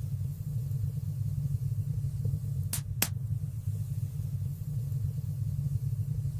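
Wood fire burning in a fireplace: a steady low roar of the flames, with two sharp crackles in quick succession about three seconds in.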